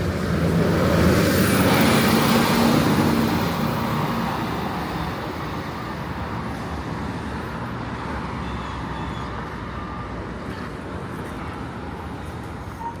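A motor vehicle passes close by, its engine and tyre noise swelling over the first couple of seconds and fading away, leaving a steady hum of road traffic.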